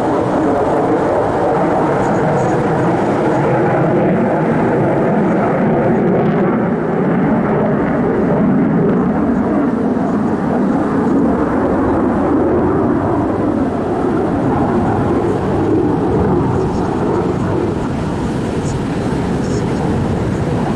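Fixed-wing aircraft engine noise, a loud steady drone that swells slightly and eases off as the plane passes.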